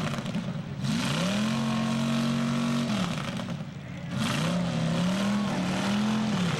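Demolition derby car engines revving hard: the pitch climbs and holds, drops away about three seconds in, then revs back up and holds again.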